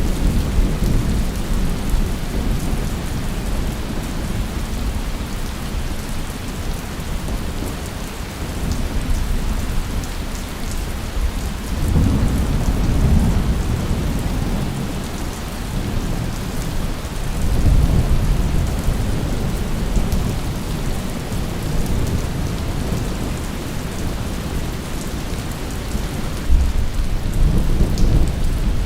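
Steady heavy rain with rolling thunder. Low rumbles swell up several times, near the middle and again near the end.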